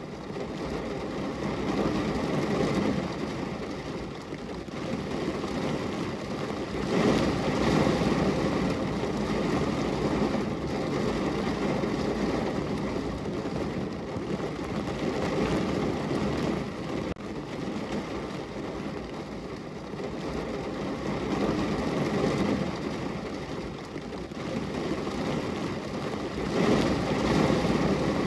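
Steady rain, drops pattering on a window pane, with a low rushing rumble that swells louder a couple of times.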